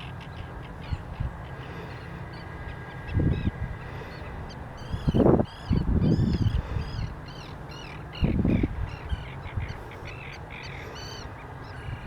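Shorebirds calling, a steady string of short, high, arching call notes repeated over and over. Three louder low rushing bursts come about three, five and eight seconds in.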